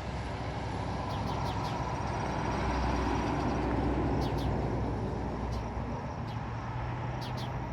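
A road vehicle passing by, its rumble and road noise swelling to a peak about halfway through and then fading. Short, high bird chirps sound over it several times.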